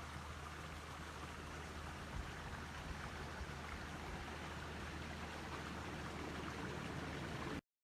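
Faint steady rush of a flowing creek, with a couple of small knocks; it cuts off suddenly near the end.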